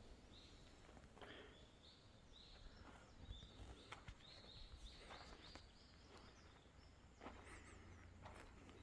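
Faint bird calls: runs of short, high chirps repeated in quick succession, over a low steady rumble.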